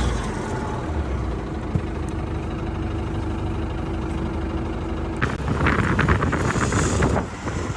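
Heavy vehicle engine running steadily, then a burst of sharp metallic clattering and knocking about five seconds in that lasts about two seconds.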